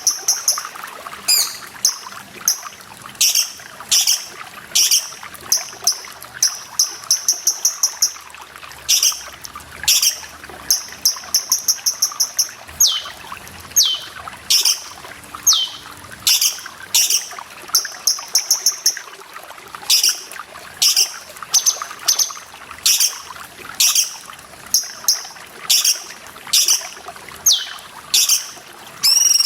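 Cucak cungkok bird calling over and over: sharp, high single notes, quick rattling runs and falling whistles, over a steady trickle of running water.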